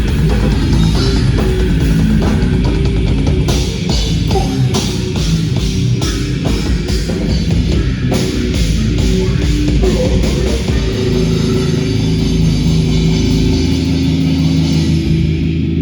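Heavy metal band playing live: distorted electric guitars, bass and a drum kit pounding. About two-thirds of the way through the drums stop, leaving a low distorted guitar chord ringing on.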